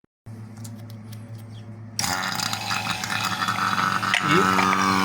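Refrigeration vacuum pump switched on: a low electric hum at first, then about two seconds in a sudden, much louder steady mechanical running noise as it pumps down the refrigerator's sealed system.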